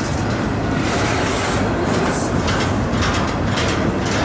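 Long intermodal freight train of empty well cars rolling past slowly, a steady noise of steel wheels on the rails.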